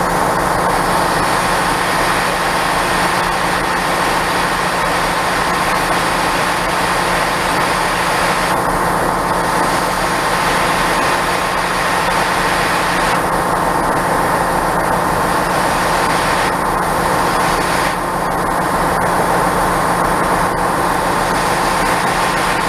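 A train's engine running steadily, with a constant hum.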